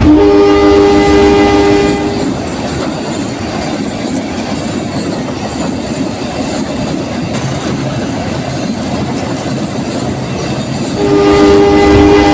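Train horn sounding a chord of several steady notes for about two seconds, then the even rumble and rattle of a train running on the rails. The horn sounds again near the end.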